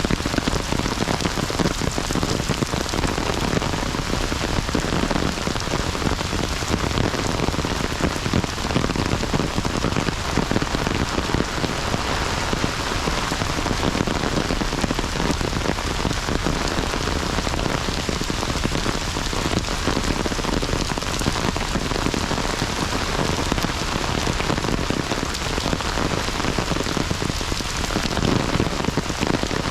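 Heavy rain falling steadily, a dense patter of drops hitting the ground and surfaces all around.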